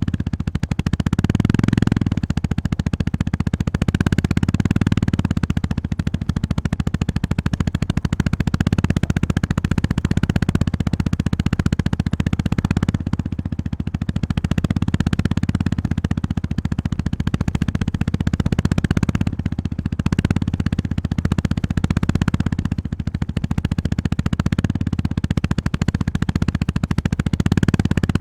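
Honda GB350S's air-cooled single-cylinder engine running under way, with rapid, evenly spaced exhaust pulses. The throttle rises and eases off every few seconds.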